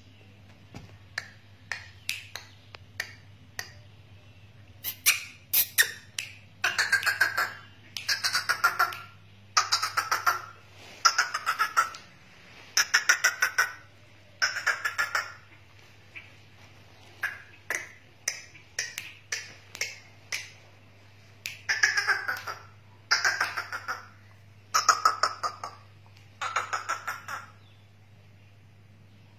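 Black francolin calling: a long series of harsh, rasping calls, each about a second long and made of fast grating pulses, given in repeated phrases with short pauses. Sharp clicking notes come first, and a steady low hum runs underneath.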